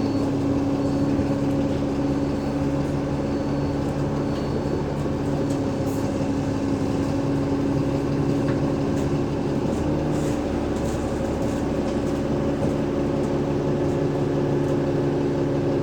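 Alexander Dennis Enviro500 MMC bus under way, its Cummins ISL 8.9-litre diesel engine and ZF Ecolife automatic gearbox giving a steady drone with a whine. The pitch shifts about ten seconds in and rises slightly near the end.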